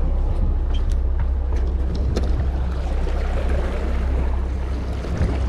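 Fishing charter boat's engine running with a steady low rumble, mixed with wind and water noise.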